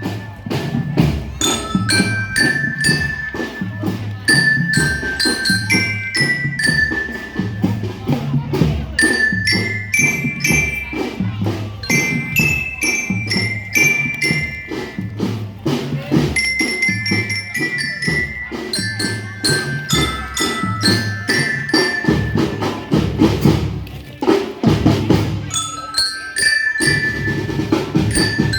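A marching drum band playing: glockenspiels carry a bright melody over snare and bass drums beating a steady march rhythm.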